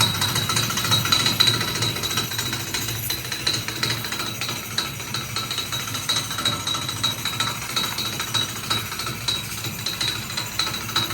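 High-pressure rinse wand at a self-serve car wash spraying water onto a car, blasting brake dust off the wheels: a steady hiss and spatter with a thin high whine.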